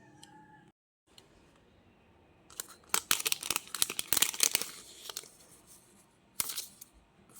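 Paper being torn by hand: a dense crackling tear lasting about two seconds, then a second short tear about a second later. Before the tearing, the sound cuts to dead silence for a moment.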